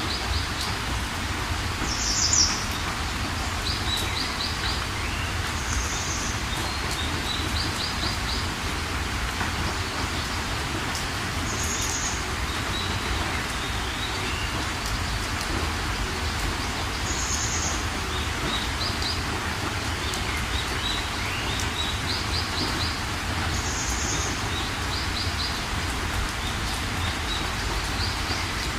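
Steady rain with birds chirping over it: a short high call repeats every few seconds, and between the calls come quick trills of three to five notes.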